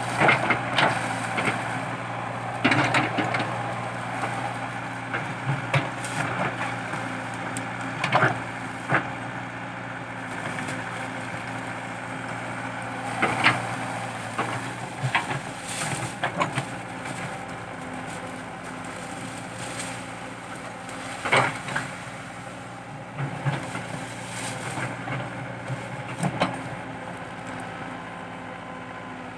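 Komatsu PC80 excavator's diesel engine running steadily under work, while eucalyptus stumps and roots crack and splinter in sharp, irregular snaps every few seconds as they are dug out.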